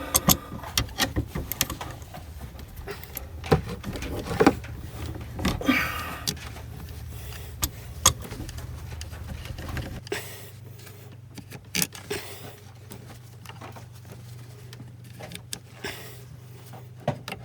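Scattered metallic clicks, taps and rattles of a steering cable being worked into a boat's rotary steering helm, pushing in harder and harder. A low steady hum sits underneath and drops away about ten seconds in.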